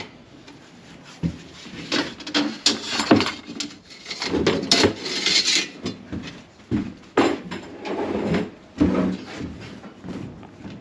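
A paint applicator rubs and scrapes irregularly over the surface as gritty, sand-loaded oil-based paint is worked on, with a few sharp knocks in between.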